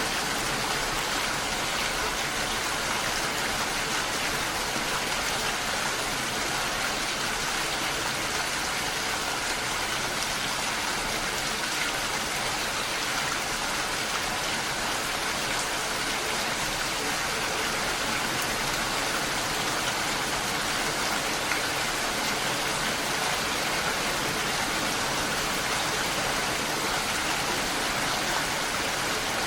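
Steady, heavy rainfall, an even hiss of rain without breaks.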